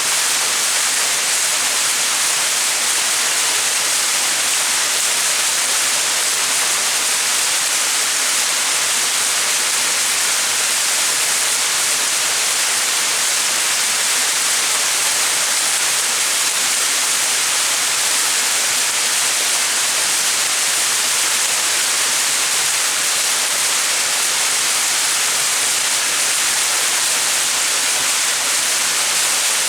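Small mountain waterfall splashing steadily, a constant even hiss of falling water with no breaks.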